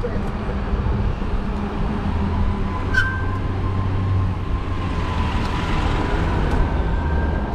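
Steady rumble of wind and road noise while riding a fat tire e-bike in city traffic, with a thin steady whine throughout and a short higher beep about three seconds in.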